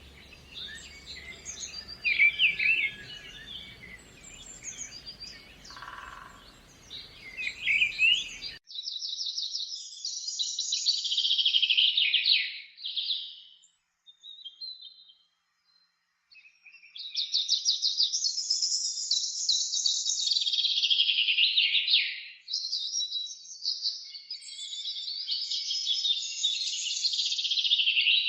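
Songbirds singing. At first several birds chirp over a faint background hiss. About a third of the way in the sound changes suddenly to long, rapid trilling song phrases from one bird, with a short pause in the middle.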